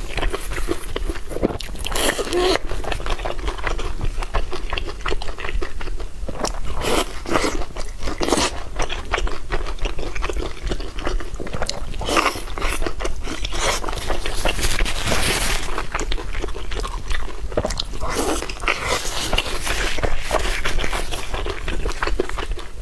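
Close-miked mouth sounds of someone eating: repeated biting and chewing, with crunching of crisp food.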